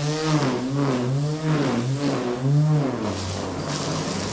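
A motor or engine whose pitch rises and falls about twice a second, like repeated surging, then settles to a steady lower note about three seconds in.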